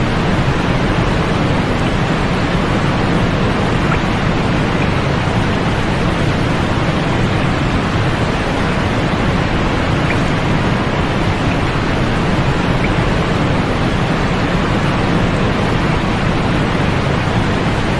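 Steady, unbroken white noise for sleep: an even hiss with no changes or events, its weight in the lows and mids and falling off in the highs.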